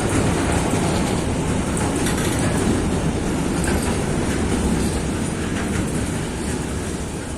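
A train rolling past at close range: a steady heavy rumble with wheels clattering over the rails, easing off slightly near the end.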